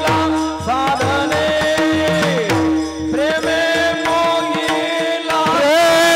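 Marathi devotional kirtan music: tabla strokes keep a steady beat under a sustained drone, while a singer's voice slides and bends between held notes.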